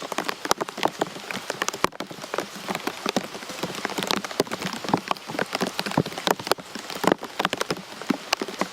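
Rain falling: a steady hiss with many separate drops striking irregularly and close, some much louder than the rest.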